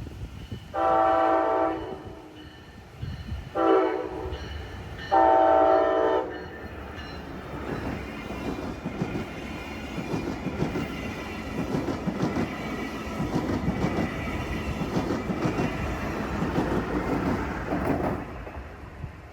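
Brightline passenger train sounding its multi-tone horn for a grade crossing, three blasts: long, short, long. The train then rolls past, its wheels clacking over the rail joints, and the sound fades near the end.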